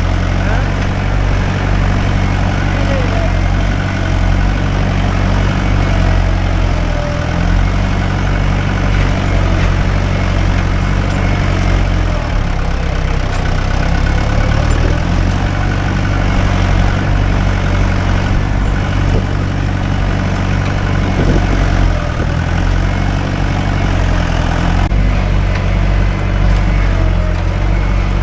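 Mahindra 575 DI tractor's four-cylinder diesel engine running steadily under load as it pulls a nine-tine cultivator through the field.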